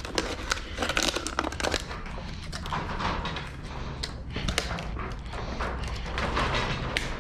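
Crinkling and rustling of handled material, with many irregular clicks and light knocks, from hands-on work cutting and handling parts.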